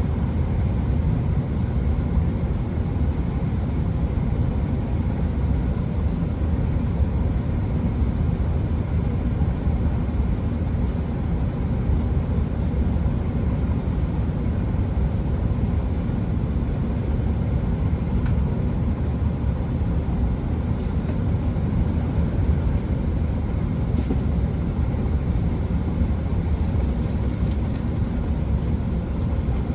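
Class 165 diesel multiple unit running at speed between stations, heard from on board: a steady low rumble of its underfloor diesel engines and wheels on the track. A few faint light ticks come in the second half.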